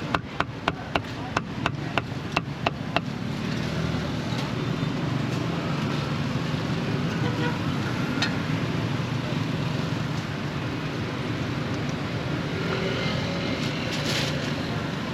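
A knife chopping on a cutting board, about three quick strokes a second, stopping about three seconds in. Then steady street noise with motor vehicles running.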